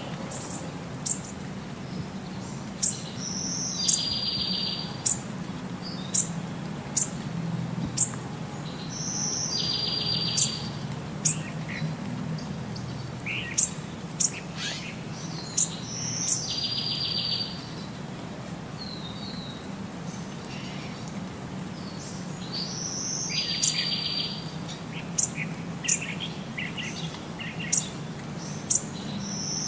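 Birdsong: many short, sharp high chirps, with a buzzy trilled phrase of about a second that comes back at even spacing about every six and a half seconds, over a faint low steady hum.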